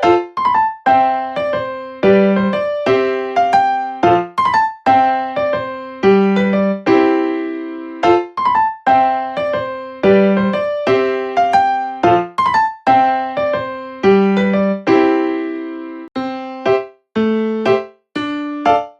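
Background music played on a piano-like keyboard: a melody over chords, each note struck and fading away, at an even pace.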